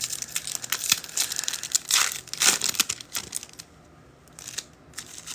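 Crinkling and crackling of a trading-card pack's foil wrapper being handled and torn open, busiest for the first few seconds and quieter near the end.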